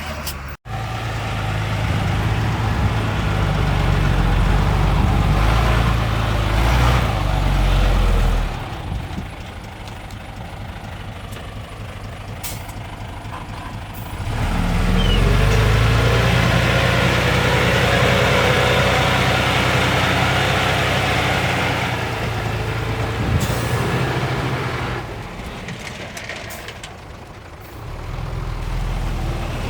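Heavy diesel engines of dump trucks and a small crawler bulldozer running under load as they work. The engine sound swells and eases twice.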